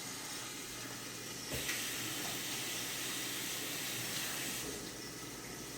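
Chicken pieces sizzling in hot oil in a frying pan, a steady hiss. About a second and a half in there is a light knock, and the hiss turns brighter until near the end.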